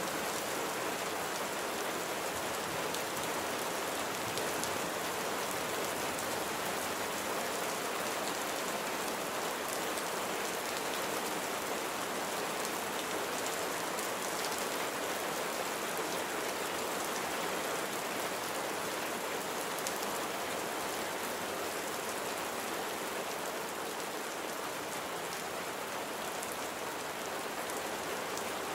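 Steady rain falling and pattering on a surface, an even hiss of many drops with no change in intensity.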